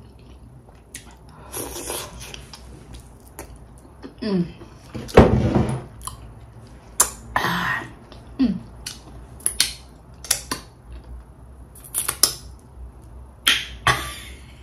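Close-up eating sounds: scattered clicks and smacks of chewing and lips, with a couple of short falling tones and a louder noisy burst about five seconds in.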